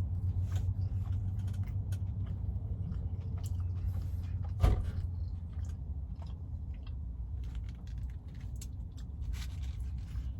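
Close-up chewing and mouth sounds of a person eating a burger, with small wet clicks, over a steady low rumble. A single sharp knock about four and a half seconds in.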